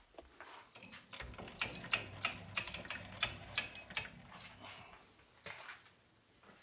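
Hand tapping a thread in metal: the tap and tap wrench give a run of sharp clicks and ticks, about three a second, as the tap is turned and cuts. The clicks thin out after about four seconds.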